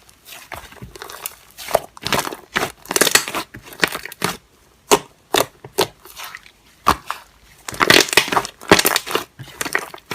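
Irregular crunching and crinkling, many sharp crackles coming in uneven clusters, thickest about two to three seconds in and again near the end.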